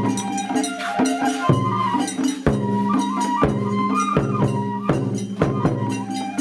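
Japanese festival hayashi music from the Hitachi-Otsu Ofune Festival. A high melody line moves in held steps over steady low tones, with sharp drum strikes falling about once a second.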